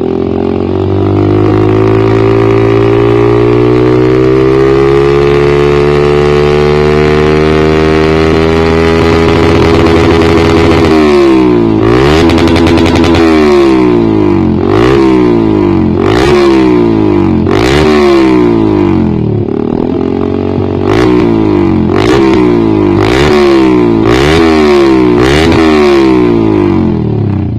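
Motorcycle engine running through a Proliner short aftermarket exhaust. Its revs climb slowly from idle for about ten seconds, then it is blipped a dozen or so times, each rev rising and dropping back quickly.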